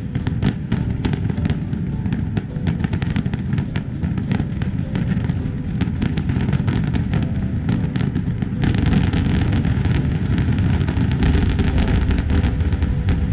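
Fireworks display: a rapid stream of bangs and crackling that grows denser and louder about two-thirds of the way through, with music playing underneath.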